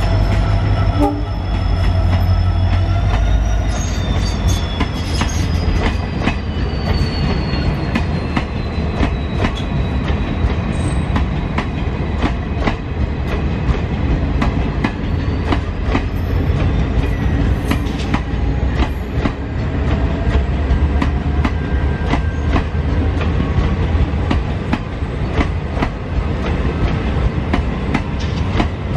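Diesel locomotive passing at speed, its horn held in a steady multi-note blast and its engine rumbling heavily for the first few seconds. A long rake of passenger coaches follows, the wheels clacking over rail joints.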